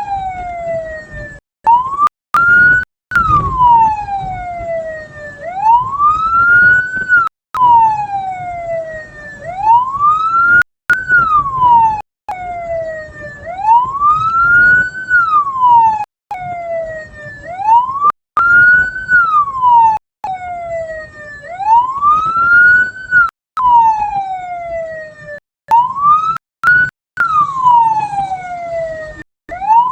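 Vehicle siren on a wail cycle: the tone rises and then slides down, about once every four seconds, over a low vehicle rumble. The audio cuts out briefly many times.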